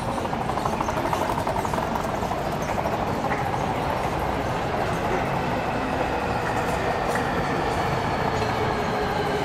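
Train running, with a whine that falls slowly and steadily in pitch over several seconds as it slows.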